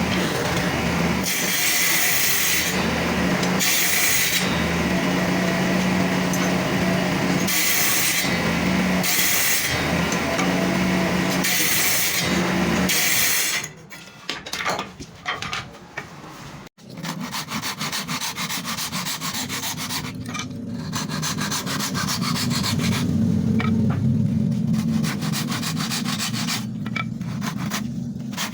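Wood being machined and sanded. For about the first half a power tool runs with a steady hum, growing louder in repeated passes every second or two. After an abrupt break it changes to a rough, fast scraping of sanding on wood.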